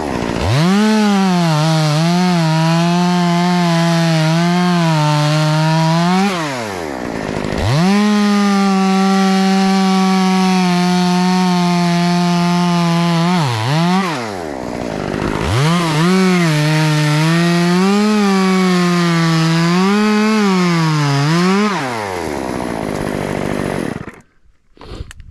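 Chainsaw run at full throttle in three long stretches, its pitch wavering and sagging as it cuts through wood, dropping back toward idle between them. The saw cuts off near the end.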